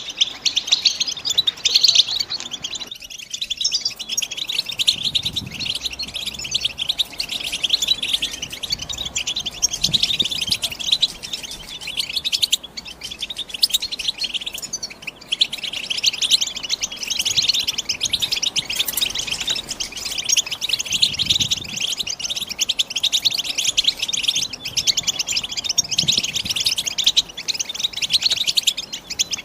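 European goldfinch singing a long, rapid, high-pitched twittering song with only a few brief pauses.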